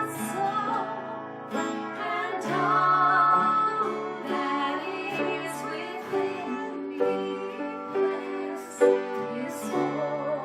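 A worship chorus: a woman singing a sustained melody over instrumental accompaniment with a steady bass line.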